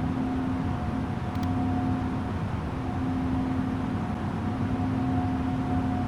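Airbus A330-900neo airliner's Rolls-Royce Trent 7000 engines and airflow making a steady rushing hum, with a low steady drone and a fainter higher tone over it.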